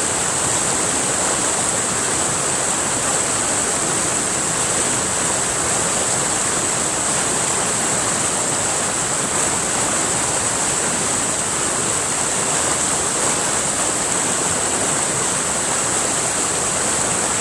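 River water flowing and rushing steadily, with a constant high-pitched hiss above it.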